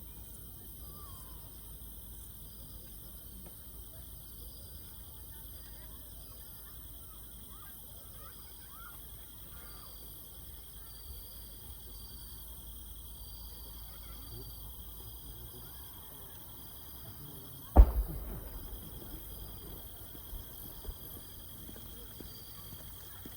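Insects chirring steadily, with faint crowd voices underneath. About 18 seconds in, a single firework shell bursts with a sharp bang, followed by a brief crackle.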